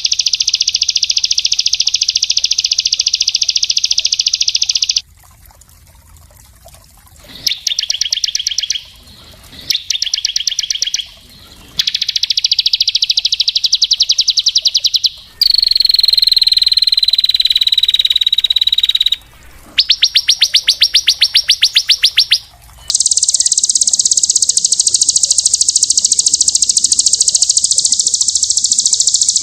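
Small songbirds' song, a string of rapid, dense high trills that start and stop abruptly, as in an edited song-tutor recording. Near the middle comes a drawn-out note that falls steadily in pitch, and the last several seconds hold a higher, buzzier continuous trill.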